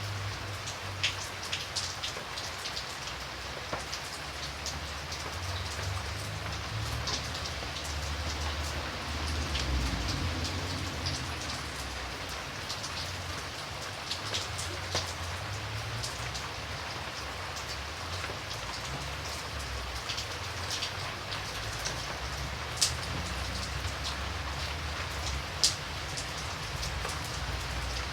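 Steady rain falling, with scattered single drops landing close by as sharp ticks over the even hiss, and a low rumble underneath that swells slightly about ten seconds in.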